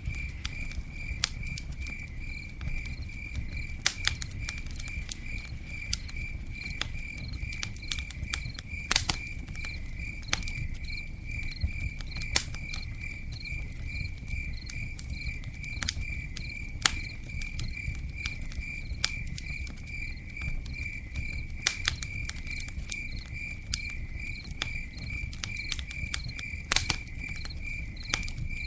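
Campfire burning with irregular sharp crackles and pops over a low rumble, while a cricket chirps steadily in a high even pulse, about three chirps a second.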